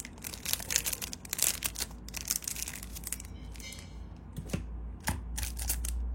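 Crinkling and rustling of plastic or paper packaging with small clicks as a lighter is handled and unwrapped, an irregular crackle throughout; a low steady hum comes in near the end.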